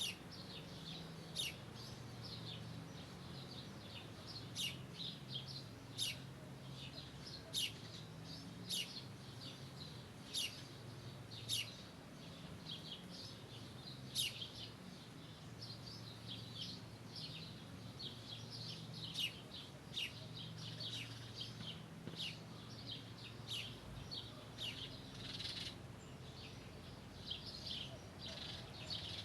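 Birds chirping: short, sharp, high calls repeating about once a second or faster, with a faint steady low background underneath.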